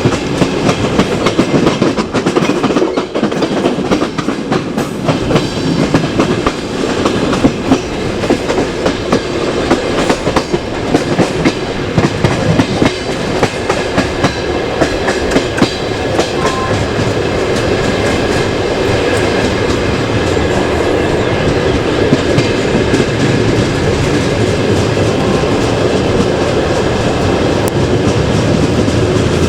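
Passenger train carriage rolling along the track, its wheels clattering over rail joints. The clicks are busiest in the first half, then it settles into a steadier rumble.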